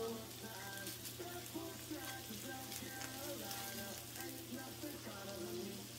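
Ground-beef meatballs sizzling as they fry in a nonstick skillet, a steady crackle, with light clicks from the tongs turning them.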